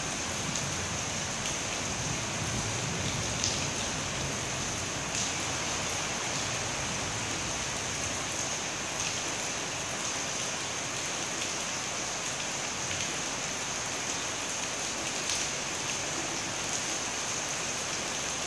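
Steady rain falling, with occasional sharp taps of drops landing close by.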